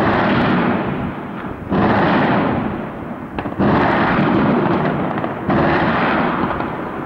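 Heavy weapons fire in a city under bombardment: four loud blasts about two seconds apart, each trailing off in a long rolling echo between the buildings.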